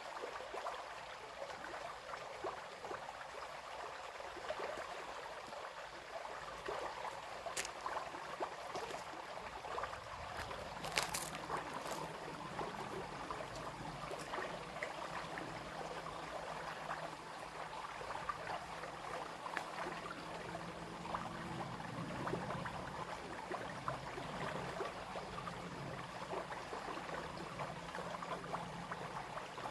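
A small brook babbling and splashing steadily over stones, with a few brief sharp clicks or splashes about a third of the way in. A faint low steady hum joins underneath for the second half.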